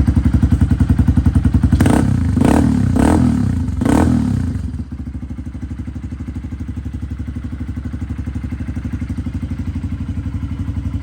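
2023 Honda XR150L's single-cylinder four-stroke engine idling through an aftermarket exhaust with an even pulsing beat. It is blipped four quick times about two to four seconds in, then settles back to a slightly quieter idle.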